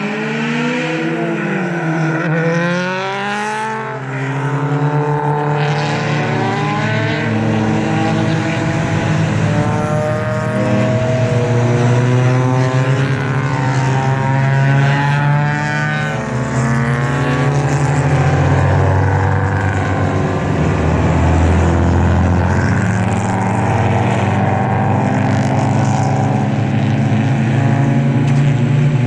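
A pack of club race cars driving past one after another on the formation lap, many engines overlapping, their pitch rising and falling as each car goes by.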